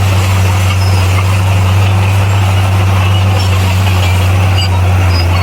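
Heavy diesel engine of a bulldozer running steadily, a deep, even drone with no change in pitch.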